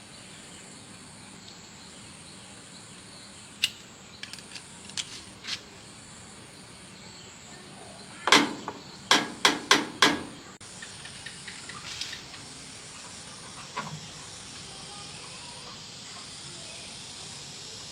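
A series of sharp knocks and clicks over a steady hiss, loudest in a quick run of about five strokes, roughly a third of a second apart, midway through.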